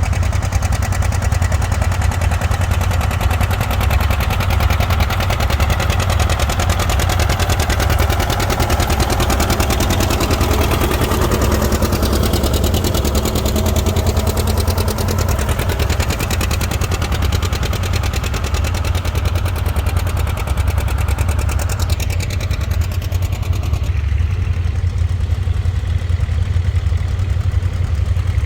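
Tractor engine running steadily at close range, a strong low drone throughout, with the higher sounds thinning out near the end.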